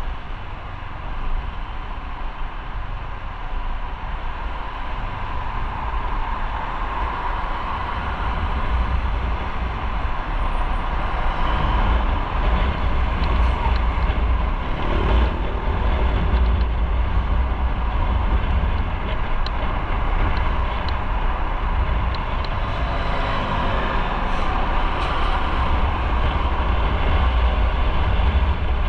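A motorcycle in motion: rushing wind and road noise with a heavy low rumble on the microphone, growing louder over the first dozen seconds or so, then holding steady.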